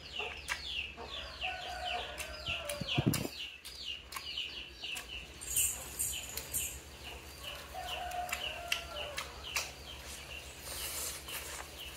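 A bird peeping in a rapid, unbroken series of short, high, falling notes, about four a second. A lower, longer call comes in twice, a second or so in and again around the middle.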